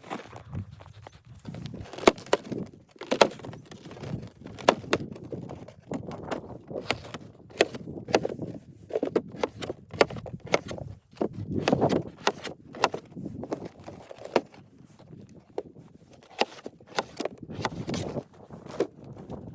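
Irregular knocks, clacks and muffled thuds from something being handled and moved about, sometimes several a second, with a denser cluster of thuds about twelve seconds in.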